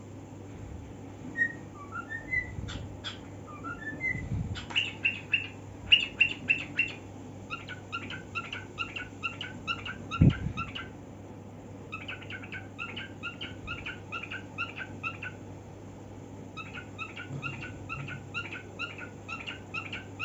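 Cockatiel whistling and chattering: a few short rising whistle notes, then long runs of rapid repeated chirps broken by brief pauses. A few sharp clicks come in the first five seconds, and a single low thump about ten seconds in.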